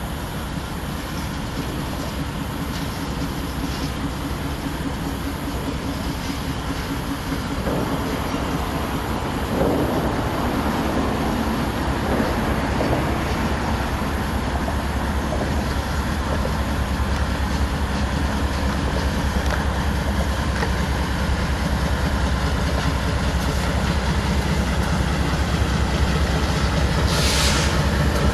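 Freight train rolling by on the rails: a steady rumble with wheel clacking, growing slowly louder. A short hiss comes near the end.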